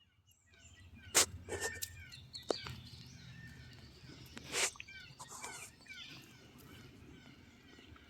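Wild birds chirping in the woods, with two brief sharp sounds, one about a second in and a louder one about four and a half seconds in.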